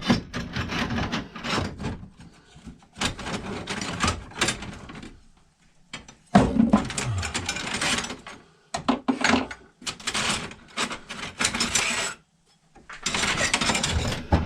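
Rasping strokes of a hand tool worked on an old axe, coming in runs of a second or two with short pauses between.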